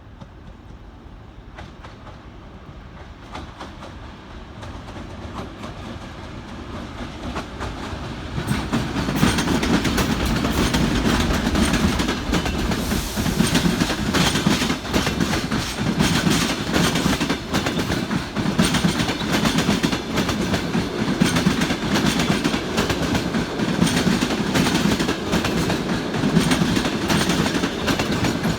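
TEP70 diesel locomotive hauling a passenger train, growing steadily louder as it approaches and passing close from about eight seconds in, with a low rumble and the wheels clattering over the rail joints as the carriages roll by.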